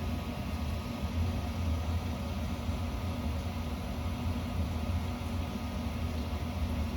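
Gas-fired hanging garage unit heater starting up after being switched on, before its burner lights: a steady low motor hum.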